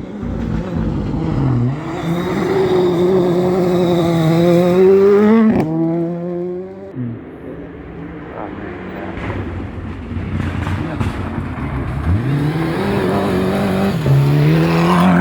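Rally car engine revving hard as it passes at speed, its pitch climbing for several seconds and cut off by a sharp bang about five and a half seconds in. Engine revs rise again near the end.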